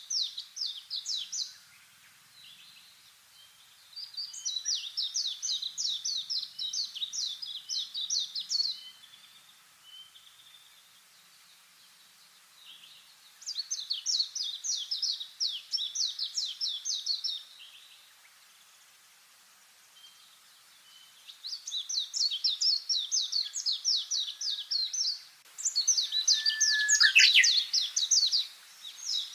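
A songbird singing in repeated bouts of rapid, high chirps. Each run lasts about four seconds, with pauses of a few seconds between them. The last run, near the end, is the loudest.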